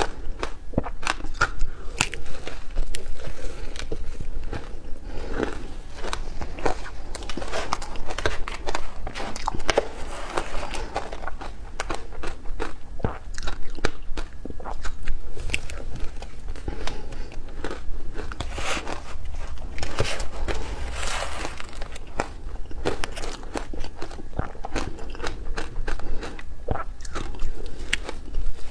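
A person biting and chewing frozen matcha ice, a continuous run of irregular crunching and crackling bites.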